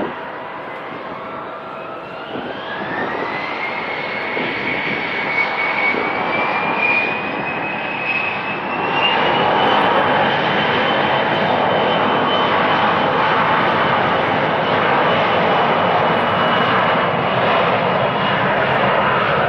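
Airliner's engines spooling up for a rolling takeoff: a whine rises about two seconds in and steps higher near nine seconds, while the roar grows to a steady, loud takeoff thrust.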